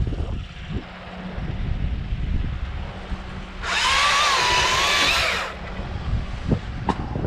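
Battery-powered top-handle chainsaw (Stihl MSA 161 T) making a short cut of about two seconds a little past the middle, a loud whine that wavers under load and stops sharply, over wind buffeting the microphone.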